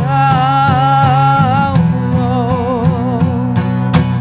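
Acoustic guitar strummed at about four strokes a second, with a held, wavering melody line over it: a sung song accompanied on guitar.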